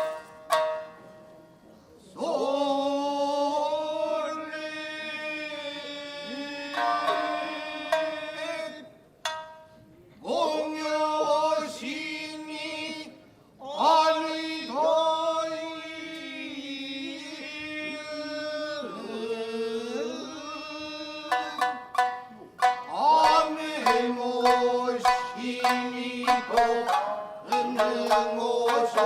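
Tokiwazu-bushi music: a chanter holds long, wavering sung notes over plucked shamisen. The shamisen plucks come thick and fast in the last several seconds.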